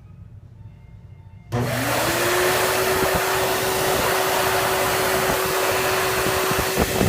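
National (Panasonic) FJ-T09F1 jet-towel hand dryer switching on about a second and a half in. Its motor whine rises quickly to a steady pitch under a loud, even rush of air.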